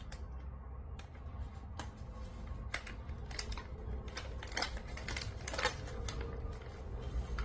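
Plastic snack wrapper crinkling and crackling in irregular bursts as it is worked open by hand, over a low steady hum.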